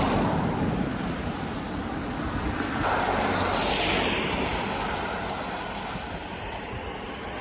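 Steady wind and rain noise on the microphone, swelling about three seconds in and easing off toward the end.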